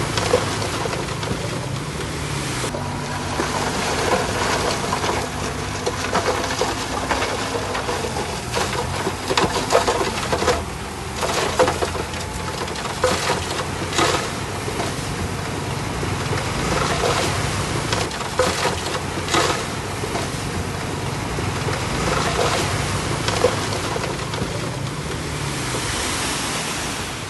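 Bulldozer's diesel engine running steadily under a rumbling, noisy wash, with frequent sharp metallic clanks from the working machine and its tracks.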